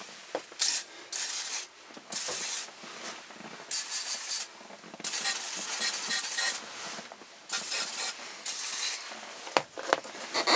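Aerosol can of PB Blaster penetrating oil hissing in repeated short sprays, with one longer spray of about two seconds midway, aimed onto rusted, seized clutch and brake pedal pivots.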